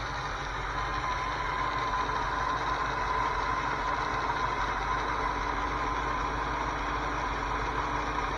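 1981 Ford 302 V8 idling cold, heard at the top front of the engine: a steady run with a fast, regular ticking and a steady whine over it. The owner believes the engine is blown and takes the noise for rod knock.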